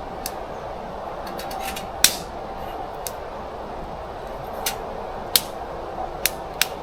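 About eight sharp clicks and snaps at irregular intervals, the loudest about two seconds in, over a steady background rumble.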